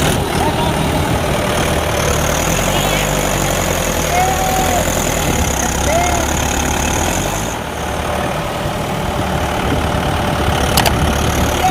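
Mahindra 595 tractor's diesel engine running steadily.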